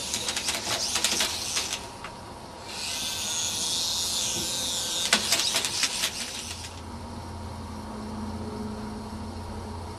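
PicoZ MX-1 micro RC helicopter's motor and rotor whirring high, with two spells of rapid clicking like the blades striking something. The whirr dips in pitch and cuts out about two-thirds of the way through, leaving a low hum.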